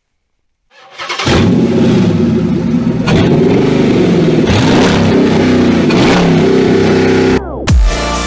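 A car engine starts about a second in and revs up and down repeatedly. Near the end it cuts off abruptly and electronic dance music begins.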